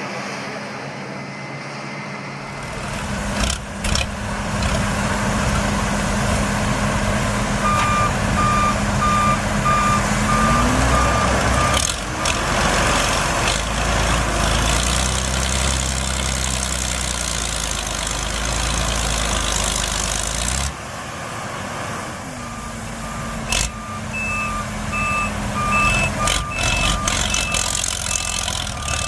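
Heavy vehicle's engine working hard: it revs up about ten seconds in and drops back about two-thirds of the way through. A reversing alarm beeps evenly in two spells, and there are a few sharp knocks.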